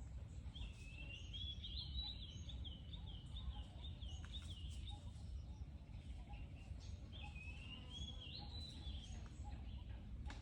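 A bird singing: two runs of quick repeated high chirping notes, the first starting about half a second in and the second about seven seconds in, over a steady low background rumble.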